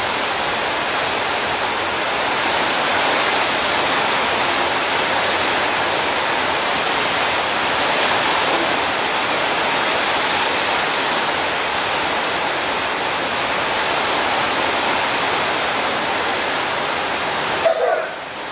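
Steady rushing noise with no distinct events, briefly dipping just before the end.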